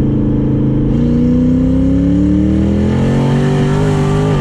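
Twin-turbo Ford Coyote 5.0-litre four-valve V8 accelerating hard, its engine note rising steadily from about a second in and dropping sharply right at the end as the transmission shifts up.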